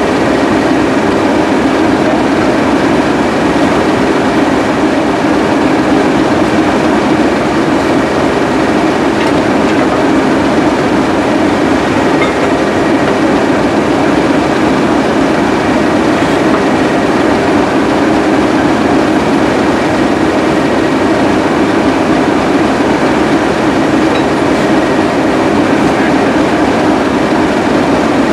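Heritage diesel train running at a steady pace: a continuous, even rumble with a faint steady high tone above it.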